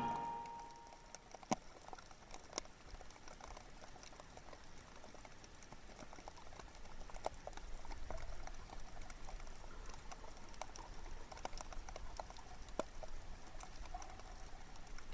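Faint scattered clicks and crackles over a low rumble.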